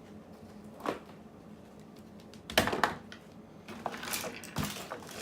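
A few small knocks and clicks of hard objects being handled on a workbench, spaced irregularly, the loudest pair about two and a half seconds in.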